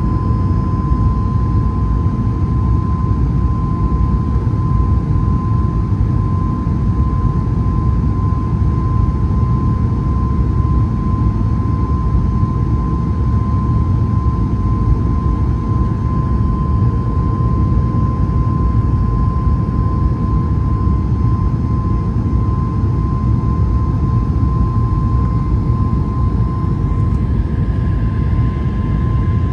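Boeing 737 MAX 8 jet airliner with CFM LEAP-1B engines, running with a loud, unchanging roar and a single steady whine running through it.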